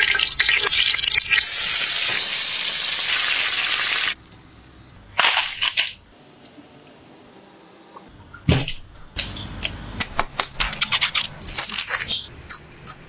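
Strips of mashed-potato dough sizzling as they are dropped into hot oil in a frying pan, for about four seconds. Later, crisp fried potato sticks snapping and crunching in a quick string of sharp cracks.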